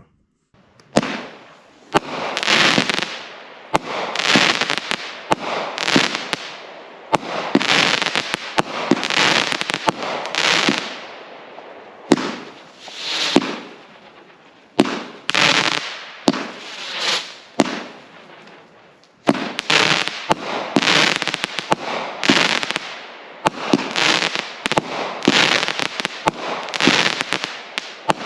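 Brothers Fireworks 'Light Brigade' 42-shot 500-gram cake firing: a sharp launch thump about once a second, each followed by about a second of crackling from the breaks. There is a short lull about two-thirds of the way through, then the shots come faster.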